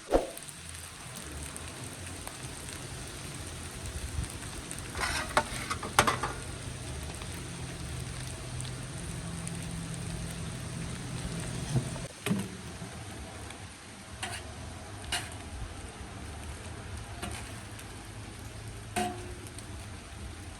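Food sizzling steadily in a cooking pot, with a few sharp clicks and knocks of utensils against it.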